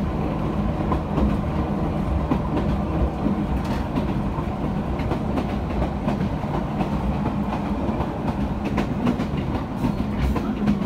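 Toyama Chiho Railway electric train running at speed, heard from inside the car: a steady rumble of wheels on rail with a steady low hum and scattered clicks.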